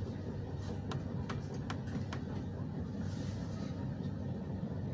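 Steady low rumble of a moving passenger train, heard from inside the carriage. A few sharp clicks come in a cluster from about one to two seconds in.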